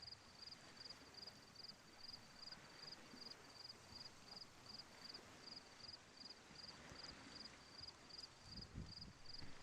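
A cricket chirping faintly in a steady, even rhythm of about three high-pitched chirps a second, over a faint outdoor hush.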